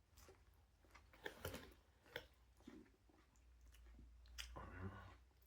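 Faint chewing of a sandwich, with soft mouth clicks and crunches, and a slightly louder muffled stretch near the end.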